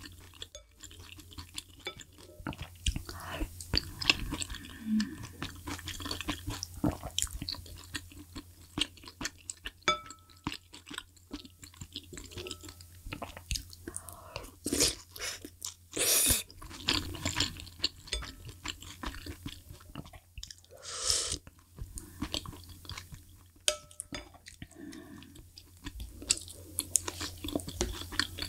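Close-miked chewing and wet mouth sounds of a person eating spicy malatang soup with rice, full of small clicks. A few short, louder noisy bursts come around the middle.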